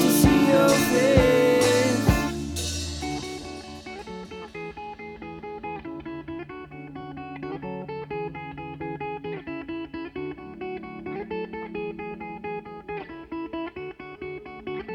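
Indie rock song: the full band with drums cuts out about two seconds in, leaving a quieter guitar playing a repeating picked pattern.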